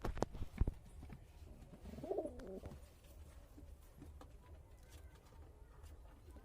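A few sharp knocks at the start, then a bird's low call lasting under a second, about two seconds in.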